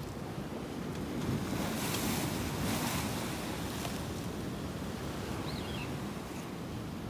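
Sea waves washing in, swelling louder about two seconds in, with wind buffeting the microphone.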